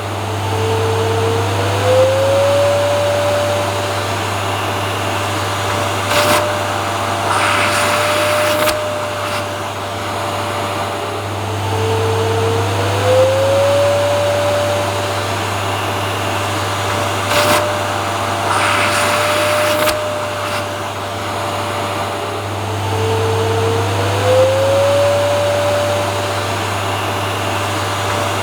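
Vacuum cleaner running steadily with a continuous hum and whine. About every eleven seconds the motor whine rises briefly in pitch and then holds, with short bursts of hiss between.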